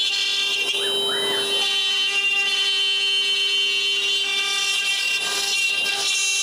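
Steady whine of a CNC machine's motors, several held tones at once, as it moves a laser head to cut small plywood parts.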